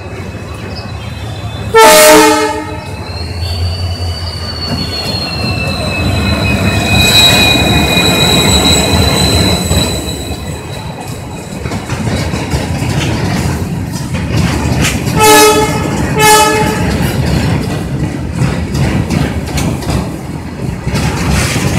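An Indian Railways EMD WDG4 diesel freight locomotive (16-cylinder two-stroke engine) sounds one loud horn blast about two seconds in, then rumbles past. A high, steady wheel squeal follows for several seconds. Two short horn blasts a second apart come later, over the low rumble and clatter of loaded BTPN petroleum tank wagons rolling by.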